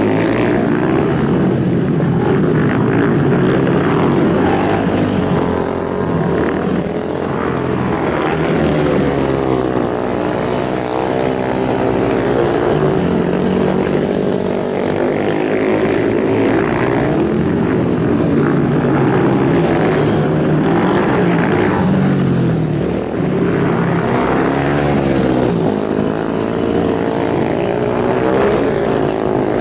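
Superbike engines running hard, their pitch rising and falling again and again as they rev and pass.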